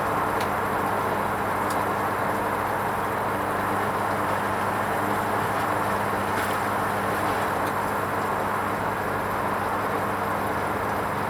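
Hoover Vision HVP16 washing machine running its wool rinse programme: a steady electric hum over an even rushing noise, unchanging throughout.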